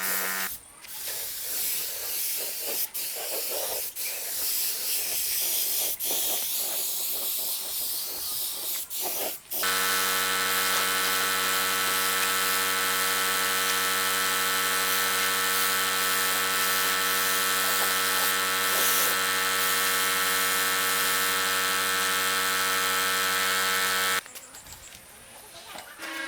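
Hissing with scattered clicks, then an electric power tool motor running at a steady pitch for about fourteen seconds before cutting off suddenly.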